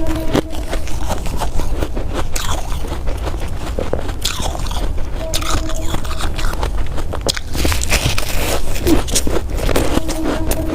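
Person biting and crunching through ice, with repeated sharp crunches.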